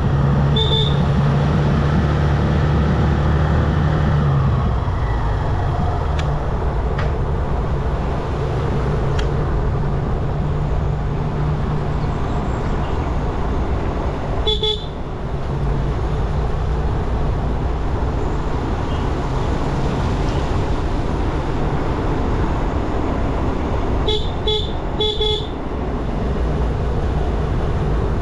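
Motorcycle engine running at road speed with wind and road noise, its note dropping about four seconds in. A horn is honked briefly about a second in, again about halfway through, and three quick times near the end.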